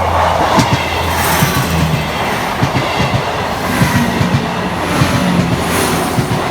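Diesel passenger train passing at close range, its engines humming steadily under a rapid clatter of wheels clacking over the rails.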